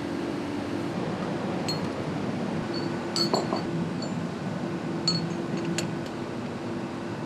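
Factory floor sound: a steady machinery hum with a few light metallic clinks, the loudest a little over three seconds in.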